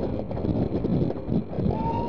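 Passenger coaches of a steam-hauled train rolling over curving track: a rumble and irregular clatter of wheels on rails, with wind buffeting the microphone. Near the end a steady high tone starts and holds.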